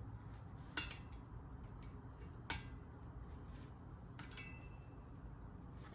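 A few sharp, separate clicks and light metallic taps of tools and parts being handled while working at the fuel rail's small locking clips on a Volkswagen 2.0T engine; one tap near the end rings briefly.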